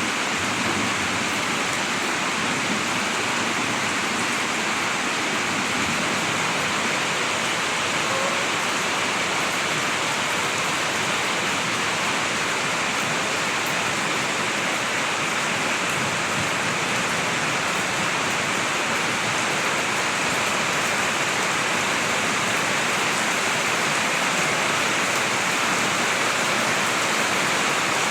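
Steady heavy rainfall, a dense even hiss of rain on surfaces with no let-up.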